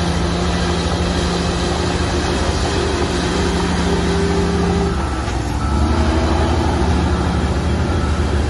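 Heavy diesel engine of earthmoving machinery running steadily under load. About five seconds in its pitch changes and the low rumble grows stronger.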